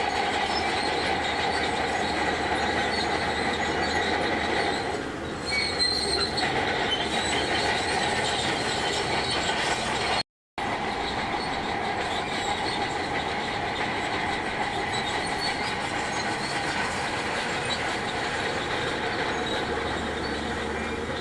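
Shantui DH17C2 crawler bulldozer working: its engine and steel tracks make a steady grinding noise with a few high squealing tones. The sound cuts out for a split second about halfway through.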